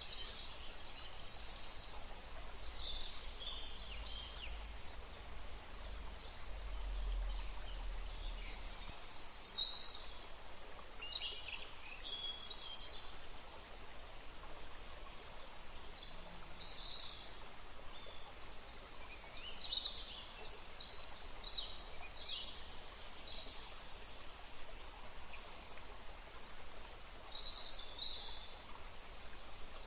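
Woodland ambience: several small birds chirping and calling in short, scattered phrases over a steady background hiss, with a low rumble during about the first nine seconds.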